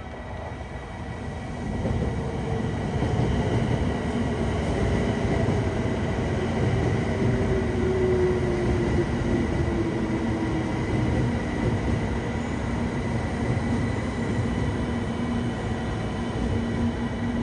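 Train running on rails: a steady rumble that swells about two seconds in, with a motor tone that glides downward partway through.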